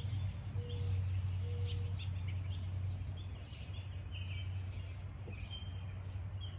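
Small birds chirping in short, scattered calls over a steady low rumble, with a few short low notes in the first two seconds.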